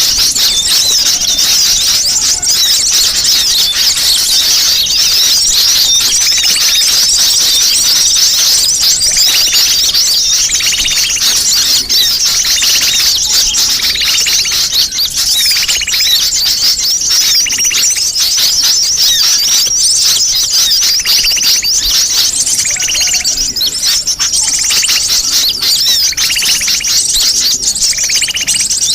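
Bird-lure recording of many sunbirds twittering at once: a dense, continuous high-pitched chatter, with a lower call repeating every second or two. It is a 'ribut' (noisy flock) lure call played to draw in small birds.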